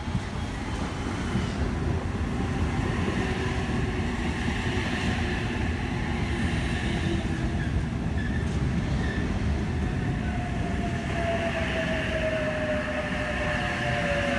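Sydney Trains H-set (OSCAR) electric multiple unit rolling into the platform with a steady rumble of wheels and running gear. In the last few seconds a whine falls in pitch as the train slows to stop.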